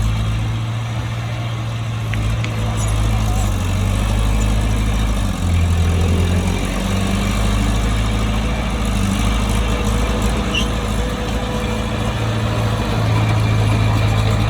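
Heavy diesel engine of a bulldozer running steadily at work. Its note dips briefly about five seconds in and then picks back up.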